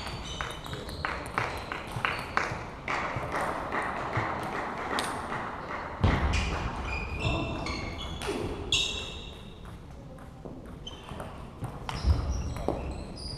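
Table tennis balls clicking off bats and the table in quick rallies, with short high squeaks and two heavier thuds about six and twelve seconds in.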